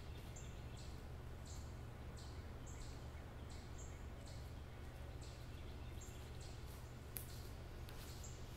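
Woodland ambience: a bird giving short high chirps over and over, about one or two a second, over a steady low rumble. A single sharp click about seven seconds in.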